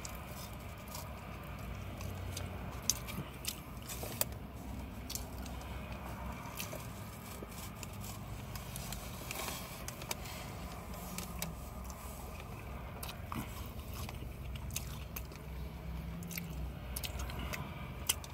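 A person chewing a mouthful of spaghetti with shredded cheese, eaten by hand, with small wet mouth clicks scattered throughout.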